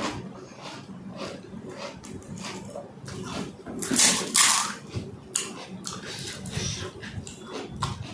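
Close mouth sounds of eating pani puri: wet chewing and crunching of the crisp puri shells filled with spicy water, with two louder bursts about four seconds in.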